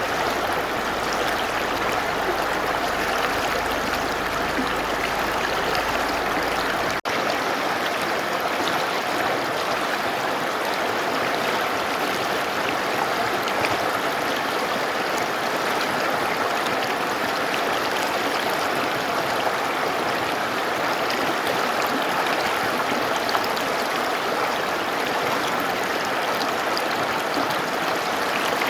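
Mountain river rushing steadily, an even wash of water noise, with a momentary break about seven seconds in.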